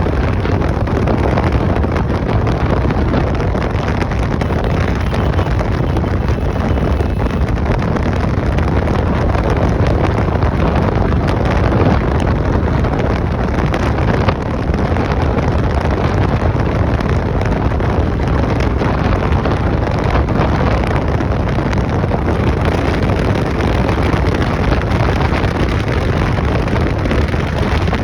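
Motorcycle riding: steady engine and road noise under heavy wind noise on the microphone, with a brief drop in level about halfway through.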